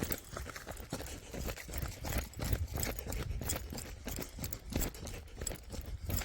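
Footsteps on a stony mountain trail: irregular crunching and knocking steps, with a steady low rumble of wind on the microphone.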